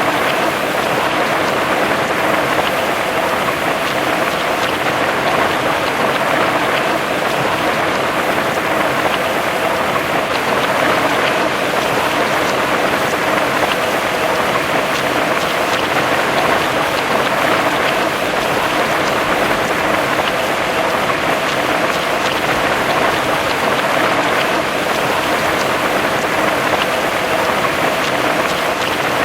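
Heavy rain falling steadily, a dense even patter of drops on hard surfaces with no breaks.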